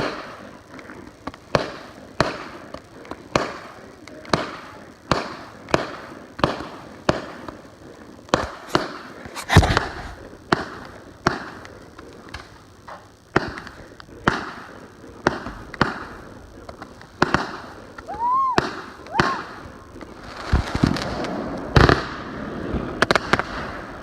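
Fireworks going off in a steady string of sharp bangs, about two a second. About three-quarters through, two short whistles sound, then a denser stretch of crackling bangs follows.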